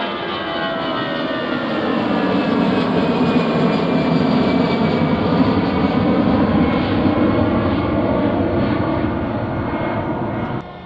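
Aircraft engines running as a plane passes close by, a steady roar with a whine that slowly falls in pitch, swelling a couple of seconds in. The sound drops off suddenly near the end.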